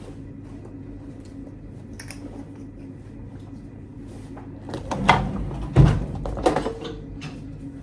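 A steady low hum, then a run of knocks and clatters of things being handled about two-thirds of the way through, the loudest a single thump.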